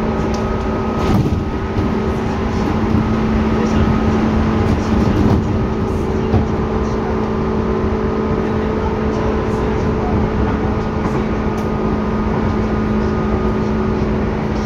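Tobu 10030 series electric train heard from inside the car, above the line breaker: a steady rumble with several constant electrical hum tones, and now and then a faint click.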